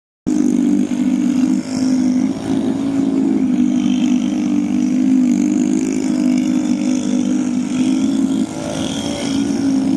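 Mini bike's small engine running hard at fairly steady revs for a burnout, with a few brief dips in level.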